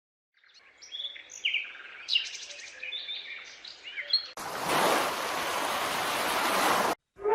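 Small birds chirping and twittering in quick, overlapping calls for about four seconds, then an abrupt switch to a louder, steady rushing hiss lasting about two and a half seconds that cuts off suddenly.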